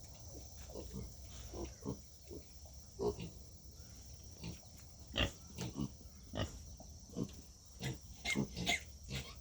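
Pigs grunting: a run of short, irregular grunts, some overlapping, with a few sharper squeaky ones.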